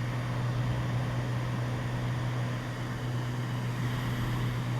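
Cessna 206 Stationair's piston engine and propeller droning steadily in cruise, heard from inside the cabin as an even low hum with a faint hiss.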